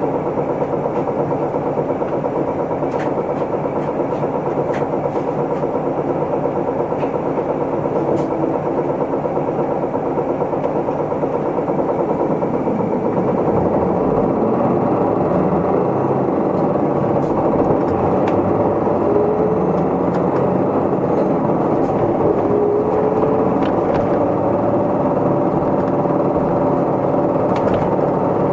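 Isuzu Erga Mio city bus's diesel engine running under way, heard from inside the passenger cabin. The engine grows louder about halfway through, with rising engine tones as the bus picks up speed, and small rattles and clicks from the cabin.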